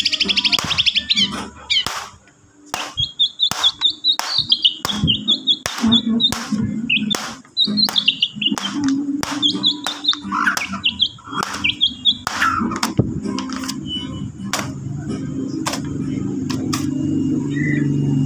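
White-rumped shama (murai batu) singing fast, chirping phrases, broken up by many sharp clicks. A low hum builds over the last few seconds.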